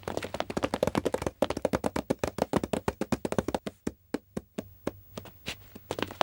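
Footsteps in very quick succession, about ten short impacts a second. They thin out and stop briefly about four seconds in, then pick up again near the end.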